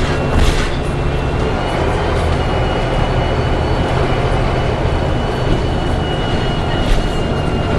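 Inside a moving Volvo B7TL double-decker bus: engine and road rumble, with a steady high-pitched howl that comes in about two seconds in and fades out near the end. This is the bus's strange howling noise, of unknown cause.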